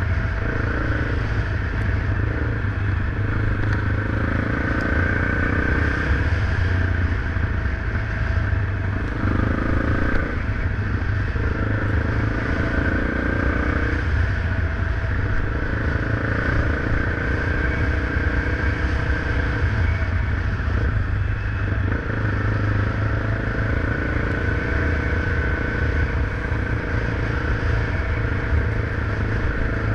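Motorcycle engine running steadily while riding, its note shifting a little every few seconds.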